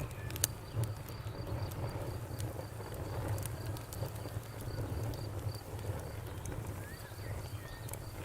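Campfire crackling, with sharp irregular pops over a low steady rumble of burning wood. An insect, likely a cricket, chirps steadily in the background, about two to three chirps a second.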